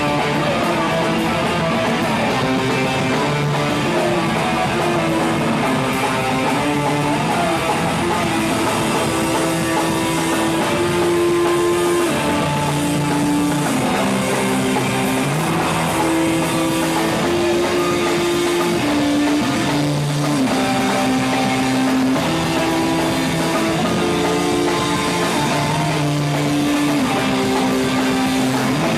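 A rock band playing live: loud distorted electric guitars holding chords that shift every second or so, with drums behind.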